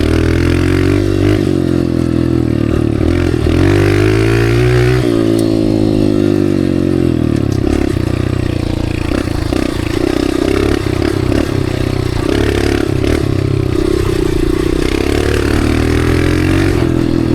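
Dirt bike engine running while being ridden. Its pitch rises and falls with the throttle in the first half, then holds steadier with small ups and downs.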